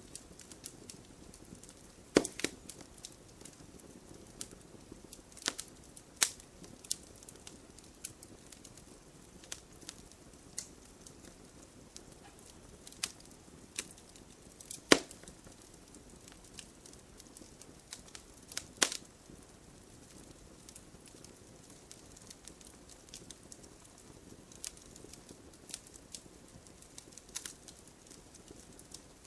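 Wood fire crackling: a soft steady hiss with irregular sharp pops and snaps, a few louder cracks scattered through.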